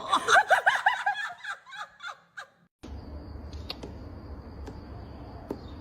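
A person laughing in a quick run of short, high 'ha-ha' bursts that breaks off sharply under three seconds in. Then a steady low background hum with a faint high whine and a few light clicks.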